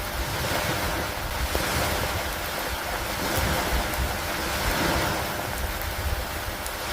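Steady rain and wind noise with a continuous low rumble, the hiss swelling and easing about every two seconds.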